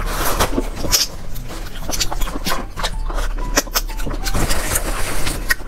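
Close-miked eating sounds: wet chewing and smacking of noodles and shellfish, with many quick, irregular mouth clicks.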